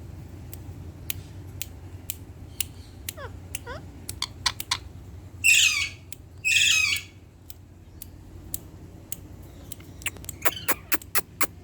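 Indian ringneck parrot giving two loud, harsh squawks about halfway through, each about half a second long. Short sharp clicks are scattered throughout, with a quick run of them near the end.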